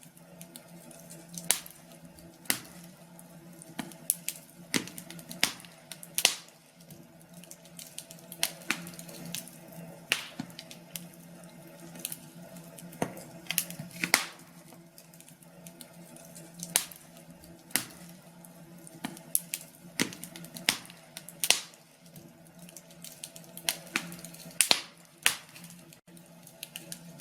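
Wood fire in a fireplace crackling, with irregular sharp pops and snaps of varying strength over a faint steady low hum.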